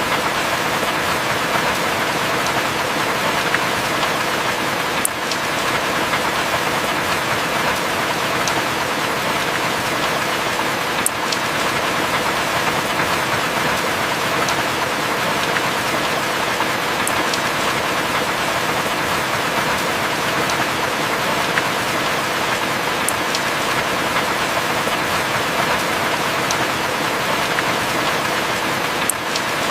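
Steady heavy rain, an even hiss with no rises or lulls, with a faint drip-like tick about every six seconds.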